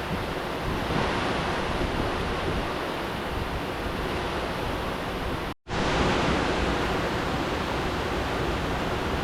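Steady rush of flowing river water. It cuts out for an instant a little over halfway through, then carries on.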